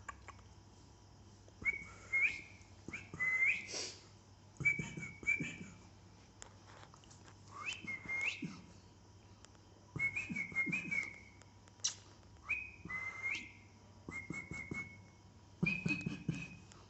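Pet parrot giving short, high whistled calls over and over, some rising in pitch, with soft rustling between them.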